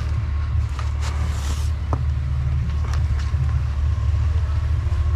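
Truck engine idling steadily, with a few light knocks and rustles from gear being handled.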